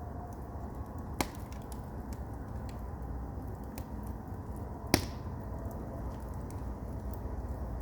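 Firewood burning in an agungi, a traditional Korean wood-fired firebox. The fire makes a steady low rumble with small crackles, and two sharp pops come about a second in and about five seconds in.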